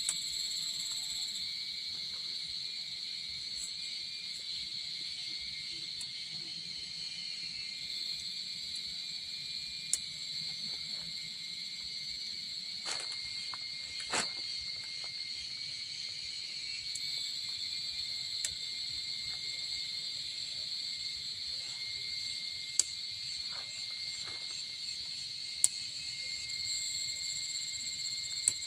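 Steady, high-pitched chorus of insects calling in a pine forest. A few sharp clicks or knocks stand out above it now and then.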